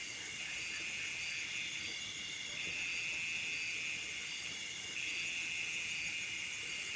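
Chorus of nocturnal rice-field insects: a dense, continuous shrill trilling, with some calls pulsing on and off and a thin high whine above.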